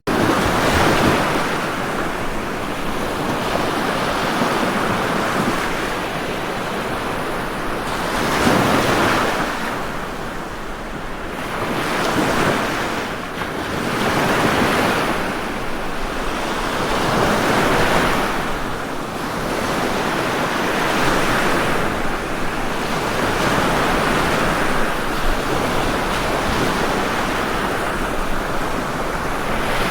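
Ocean waves breaking and washing in, one swell after another every few seconds, with no voices or music.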